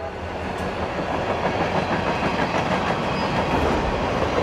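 A train running past on the rails: a steady, even noise of wheels and carriages on the track.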